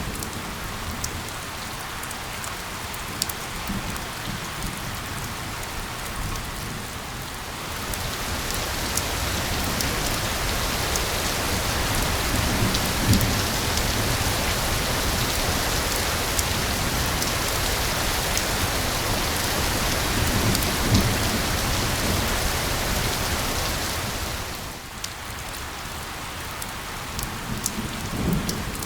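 Steady rain with individual drops pattering, blended with a white-noise hiss. The hiss swells louder about eight seconds in and drops back a few seconds before the end, with a few soft low rumbles along the way.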